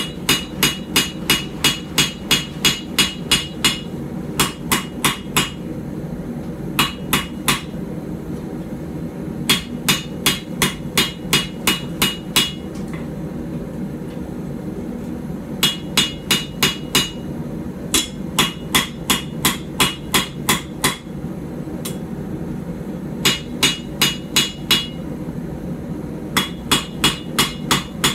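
Blacksmith's hand hammer striking a hot puukko blade on the anvil in quick runs of blows, about three a second, with short pauses between runs. Each blow rings with a bright metallic tone. These are gentle, flat planishing blows to smooth hammer marks and flatten the back of the blade.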